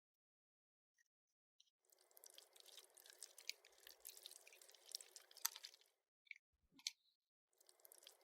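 Faint crackling squish of Play-Doh modelling clay being pressed and worked, starting about two seconds in and lasting about four seconds, then a couple of small clicks and another squish near the end.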